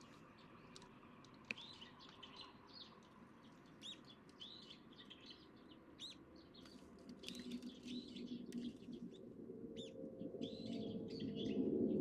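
Birds chirping: many short, high calls one after another, with a single sharp click about a second and a half in. A low hum grows steadily louder through the second half.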